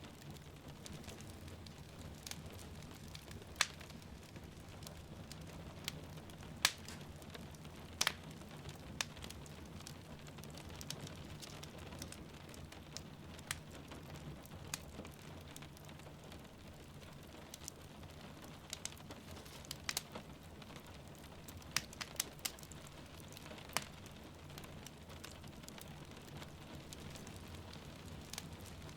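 Wood fire crackling in a fireplace, with irregular sharp pops every second or two over a steady low rumble, and the even patter of rain falling outside.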